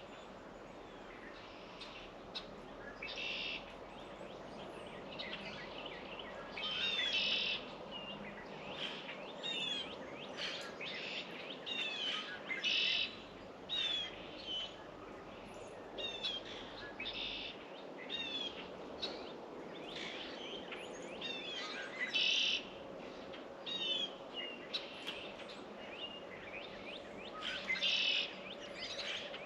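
Small birds calling over and over, with short falling chirps and longer notes about half a second each, a few every couple of seconds, over a faint steady background noise.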